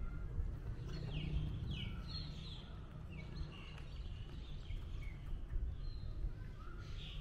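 Small birds chirping: quick, short calls that slide down in pitch, starting about a second in and coming on and off after that, over a steady low rumble.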